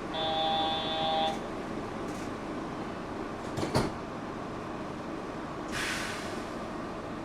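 Yurikamome train doors closing at a station stop: a steady electronic door chime sounds for about a second, a sharp clack comes as the doors shut a couple of seconds later, and a short hiss of air follows, over the steady hum of the stopped train.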